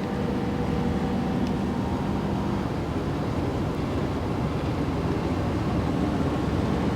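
Steady engine and road noise inside a moving car's cabin, a low rumble; a faint low hum in it fades out about two and a half seconds in.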